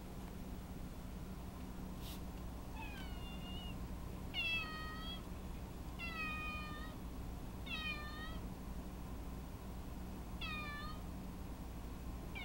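An elderly domestic cat meowing repeatedly, five drawn-out meows each about half a second to a second long and falling slightly in pitch, with a short click before the first.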